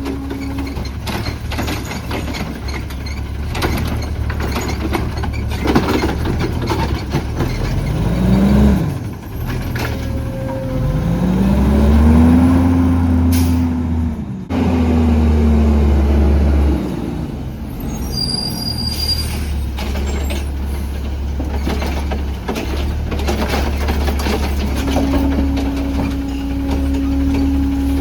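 CNG-powered Autocar ACX garbage truck with a Heil Rapid Rail automated arm, its engine running and revving up and down twice, the second time longer, as it drives the hydraulics. A short hiss of air brakes comes with the second rev.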